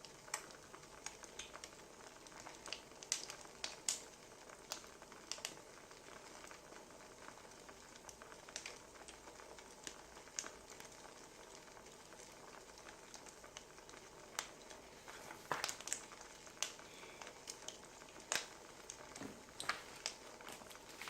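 Wood fire crackling: a faint, steady hiss with irregular sharp pops and snaps.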